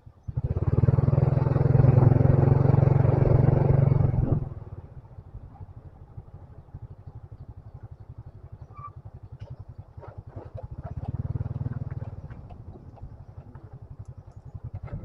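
Motorcycle engine: a low, evenly pulsing putter, opening up loudly for about four seconds near the start, then dropping back, with a second smaller rise of the throttle near the end. A few light clicks and rattles in between.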